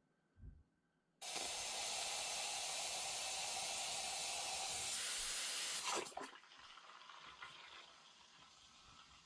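Steam espresso machine letting out steam: a sudden loud hiss about a second in that holds steady for about five seconds, then drops to a quieter hiss.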